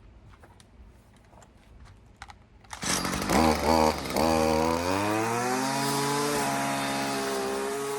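Stihl FS55R string trimmer's two-stroke engine starting about three seconds in after a few light clicks. It revs briefly, then settles into a steady run on its newly fitted aftermarket carburetor.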